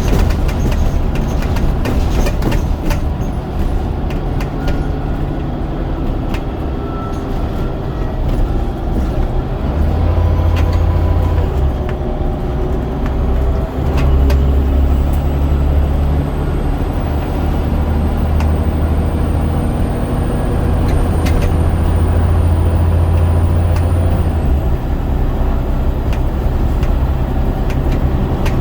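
Scania DC9 9.0-litre diesel of a double-decker bus driving through a ZF Ecomat automatic gearbox, heard on board. The engine note grows louder and shifts pitch several times as the bus pulls and changes gear, over body rattles. A faint high whine climbs slowly and drops away near the end.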